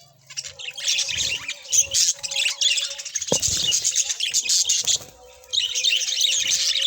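Budgies chattering and chirping rapidly in two long bouts, with a single short thump about three seconds in.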